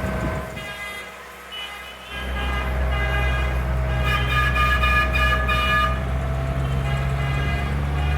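Tractor engines running, a low drone that swells up about two seconds in, with a vehicle horn tooting in short repeated blasts, loudest around the middle.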